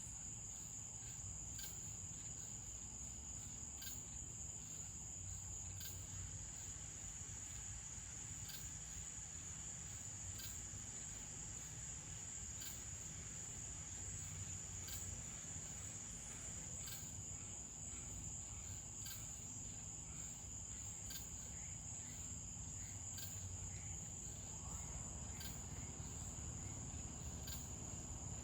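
A chorus of night insects trilling steadily at one high pitch, with faint clicks every second or two.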